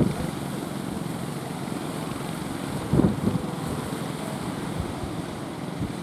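Small speedboat's engine running in strong wind, with gusts buffeting the microphone and waves around the hull; a louder gust or splash comes about three seconds in.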